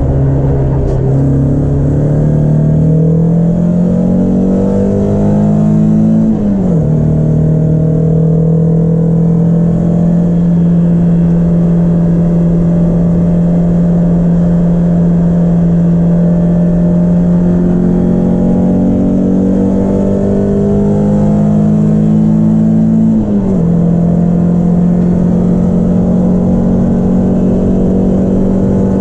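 Peugeot 306 S16's four-cylinder engine running hard at high revs. Its pitch climbs and then drops sharply at a gear change, once about six seconds in and again near the end.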